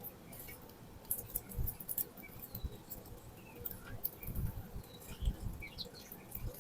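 Wild birds feeding at a seed spot: frequent sharp pecking clicks, a few faint short chirps, and several low thumps.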